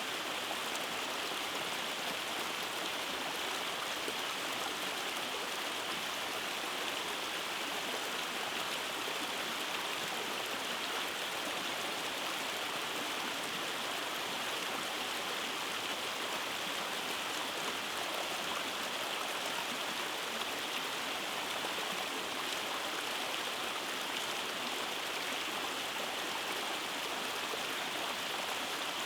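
Rainforest mountain stream rushing over small cascades: a steady, even rush of flowing water.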